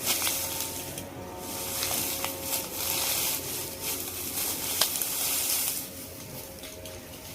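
Rustling, crunching noise in two spells, the second longer, with a few sharp clicks; faint steady tones run underneath.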